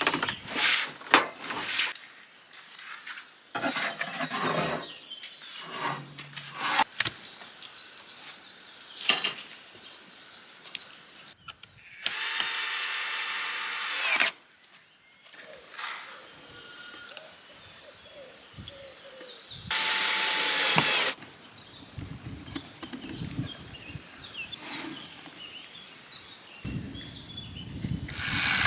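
Power drill running in two short, steady bursts, about two seconds and then about a second and a half long, while cladding boards are fixed. Sharp knocks and clicks of handled wood come before them, and a steady high insect trill runs underneath.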